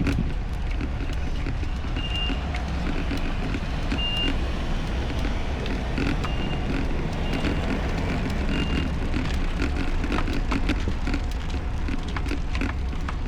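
Steady low rumble and noise, with short high electronic beeps at one pitch sounding now and then, about every one to two seconds.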